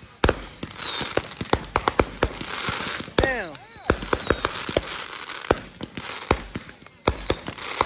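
Fireworks going off: a dense string of sharp bangs and crackles, with three falling whistles from whistling shells.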